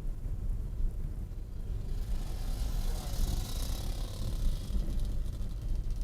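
A car passing by, its sound swelling and fading over about three seconds, loudest around the middle, over a steady low rumble of wind on the microphone.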